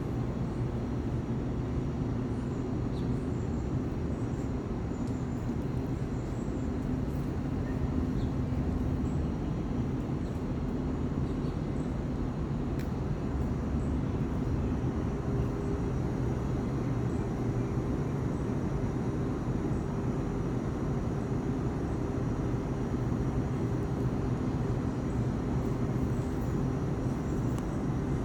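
Steady low rumble with a faint droning hum, like a running engine.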